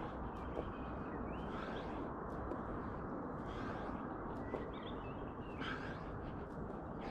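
Small birds chirping in short rising and falling phrases over steady outdoor background noise, with a few faint clicks.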